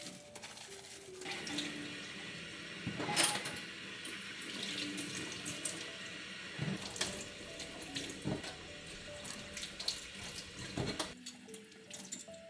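Tap running into a sink, with a few knocks from things being handled under the water; the water shuts off near the end.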